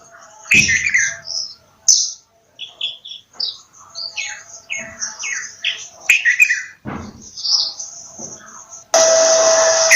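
Bulbuls chirping and calling in quick, varied short notes, some sliding down in pitch. A couple of low thumps sound early and about seven seconds in, and a loud burst of rushing noise lasts about a second near the end.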